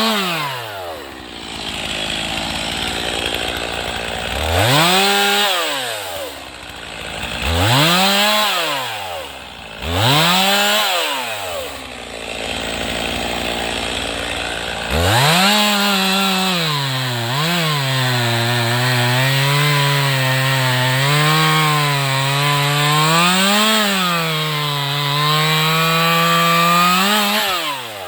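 Chainsaw cutting firewood rounds: the engine revs up and drops back to idle in three short bursts, then runs for a long stretch from about halfway, its pitch wavering as the chain works through the wood, and drops off near the end.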